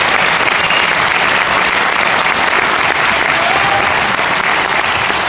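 Audience applauding steadily, a dense clapping from a large theatre crowd, with a few faint voices calling out within it.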